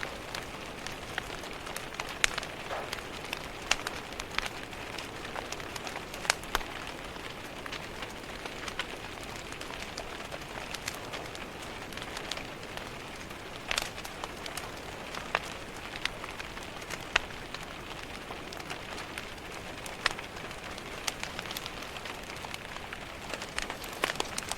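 Steady rain pattering, with a wood fire crackling and popping at irregular intervals over it.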